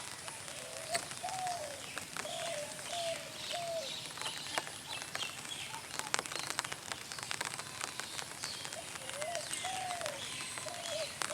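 A dove cooing: a phrase of about five rounded notes, then the same phrase again about five seconds later. Scattered light ticks of drizzle and faint higher bird chirps run underneath.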